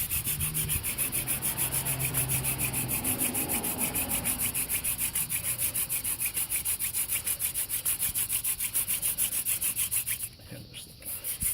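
Hand-drill fire set: a velvetleaf spindle spun fast between the palms, grinding in the notch of a poplar hearthboard in rapid, even strokes. Friction is established and the set is smoking as it builds toward a coal. The strokes break off briefly about ten seconds in, then start again.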